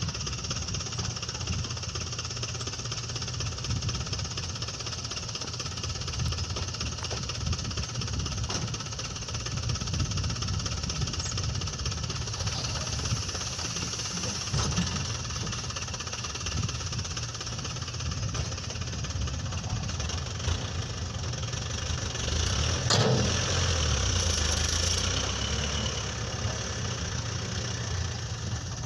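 Diesel engine of a Toyota Dyna dump truck running steadily with a clattering rumble. About two-thirds of the way through there is a single knock, and the engine runs louder for a couple of seconds after it.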